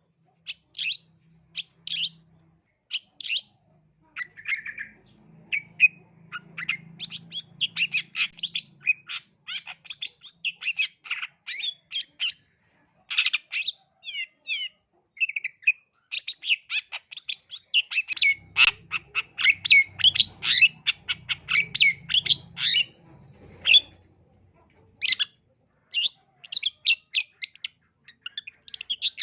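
Long-tailed shrike (cendet) singing in rapid runs of short, harsh chattering notes, broken by brief pauses.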